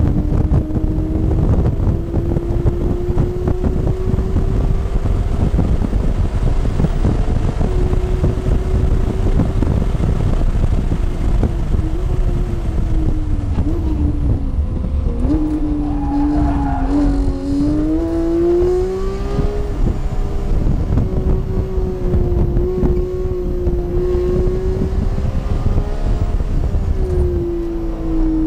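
Porsche engine heard from inside the cabin on a track lap, running at high revs with a steady note. About halfway through it drops under braking and downshifts, then climbs again as it accelerates, and it dips once more near the end on a shift down to second. Road and wind noise run under it throughout.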